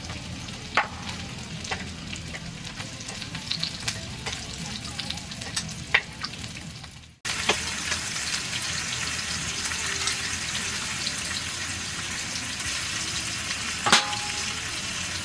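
Food sizzling in a pan, with occasional sharp clicks of a utensil against it. A brief cut about seven seconds in, after which the sizzling is steadier and louder.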